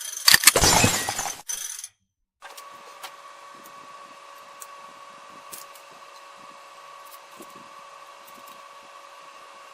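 Loud clatter of tools and metal parts being handled for about two seconds, then after a cut a faint steady hum with a two-note whine and a few small clicks.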